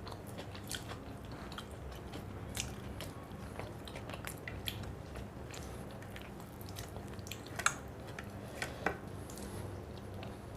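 A person chewing and eating a meal of fish curry and rice close to the microphone, with many small wet clicks and mouth smacks; the two sharpest clicks come about two-thirds of the way through.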